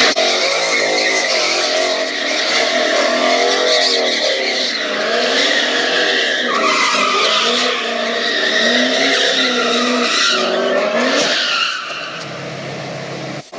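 A sports car's engine revving, its pitch rising and falling, over tyres squealing and skidding; it falls quieter about twelve seconds in.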